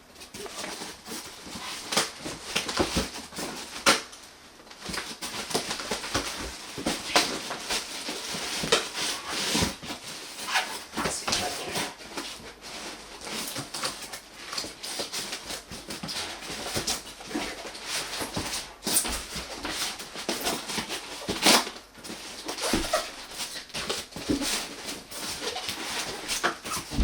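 Monitor packaging being handled: continuous rustling and crinkling with scattered clicks and knocks as the accessories are unpacked from the box.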